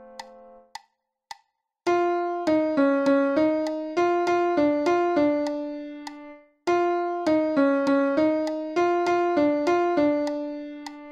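Piano-voiced keyboard playing a choral voice part as a rehearsal track. A held chord cuts off just under a second in, a couple of metronome-like clicks follow, and then a melody line of short single notes plays in two phrases with a short break between them.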